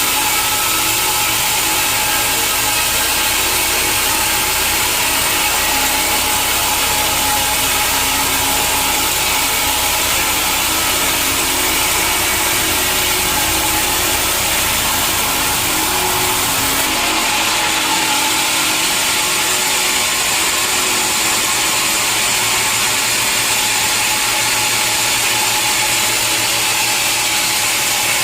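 Sawmill saw running and cutting through a log with steady, continuous noise. About seventeen seconds in, the low rumble drops away and the higher sawing noise changes.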